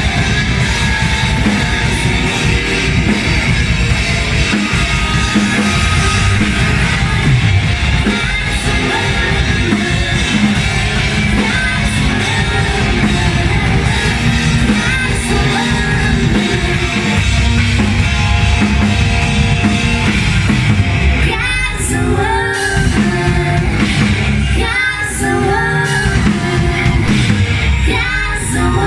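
Live rock band playing a song at full volume, with a singer's voice standing out more in the later part.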